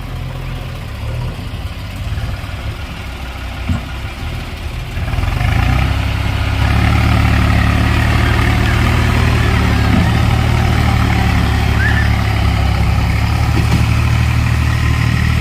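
Diesel engines of a tractor and a JCB backhoe loader running steadily, then growing louder about five seconds in and again a second or two later as they are worked harder. A single knock sounds a little before the rise.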